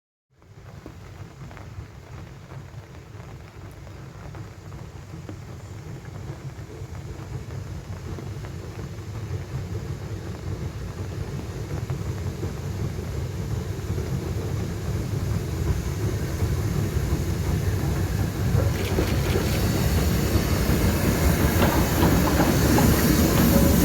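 A steam train approaching on the railway, its rumble growing steadily louder. It starts abruptly about half a second in.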